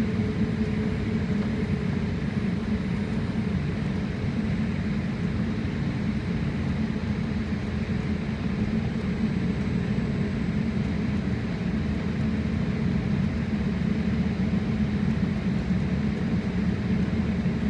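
Steady drone of a jet airliner heard from inside the passenger cabin: engine and airflow noise, deep and even, with no change in pitch or level.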